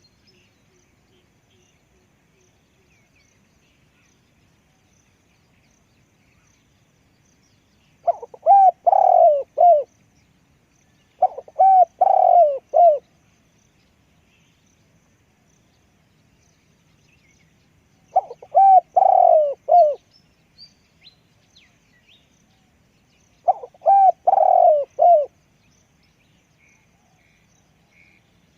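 Spotted dove cooing: four phrases of several quick coos, each phrase a second or two long, with pauses of several seconds between them.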